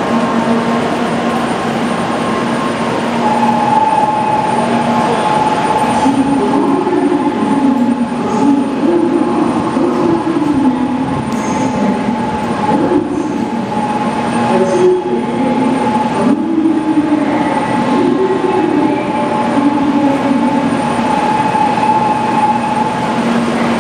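800 series Shinkansen train standing at a station platform, giving off a steady electrical hum with two constant tones. From about six seconds in, a wavering tone that rises and falls is layered over the hum.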